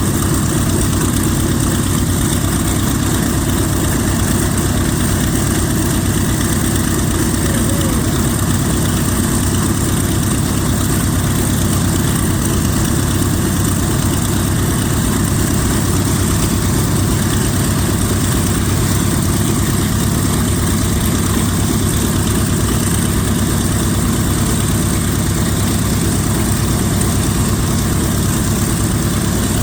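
Corsair's Pratt & Whitney R-2800 radial engine running steadily on the ground with the propeller turning, a loud even drone with no change in speed.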